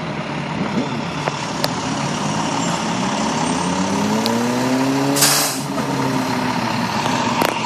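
Road traffic running steadily, with a vehicle engine rising and then falling in pitch as it goes by. A short, loud hiss comes about five seconds in.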